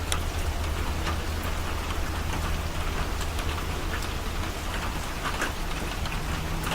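Steady rain falling, with scattered small drop ticks, over a low steady hum.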